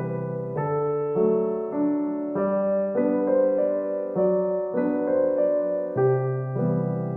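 Background music: soft electric piano playing sustained chords that change about every half second.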